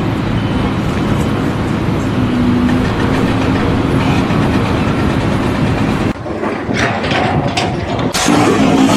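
Loud, steady rumble of heavy engine or machinery with a faint hum in it. It cuts off suddenly about six seconds in, a few knocks follow, and the rumble starts again near the end.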